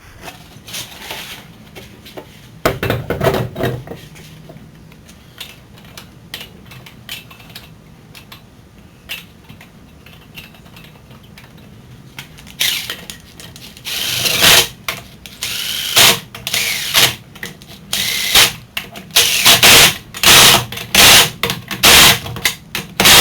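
Air or electric impact wrench running lug nuts onto a car wheel in short repeated bursts, coming thick and fast in the second half, after a few clanks as the wheel is fitted.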